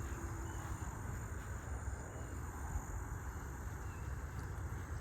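Woodland ambience: a faint, steady high insect hum over a low, uneven rustling noise.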